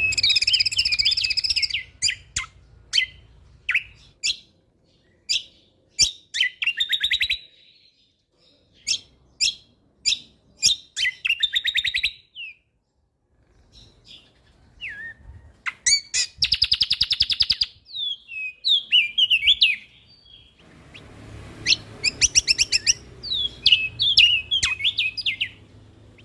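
Kecial kombok (cucak kombo) singing a loud, varied song: bursts of fast trills, sharp chips and rapid rattling phrases, broken by short pauses.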